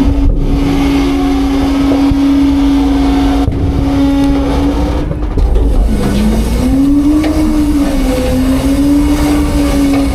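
Autocar-Heil Freedom front-load garbage truck running at raised revs to drive its packing hydraulics: a steady whine over a low rumble. About six seconds in the pitch sags, then climbs back and wavers as the load on the hydraulics changes.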